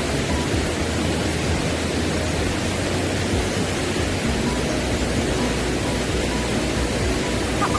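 Mountain stream water rushing steadily, a constant even hiss with no change.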